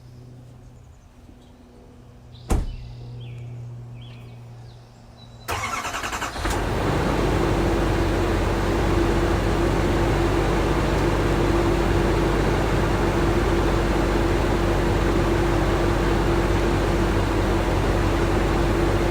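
A truck door shuts about two and a half seconds in; then a 2022 GMC Sierra HD pickup engine cranks briefly and catches at once, about five and a half seconds in, settling into a steady idle.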